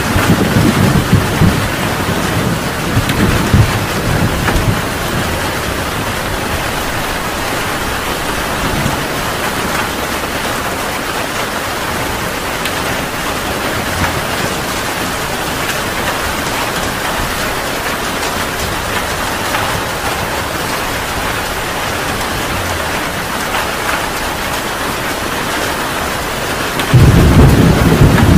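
Heavy rain falling steadily. A low thunder rumble fades out over the first few seconds, and a loud new rumble of thunder breaks in near the end.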